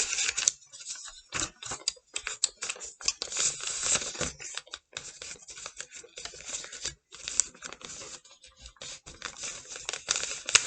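Sheet of paper being handled and folded: irregular crinkling and rustling with sharp scratchy strokes as the creases are made.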